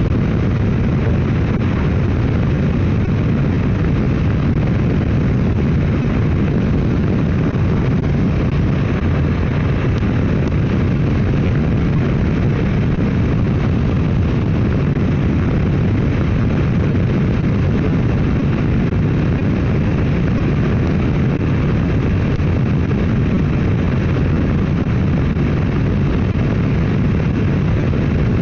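Motorcycle riding at a steady highway speed: a loud, even rush of engine and road noise with no change in pitch or level.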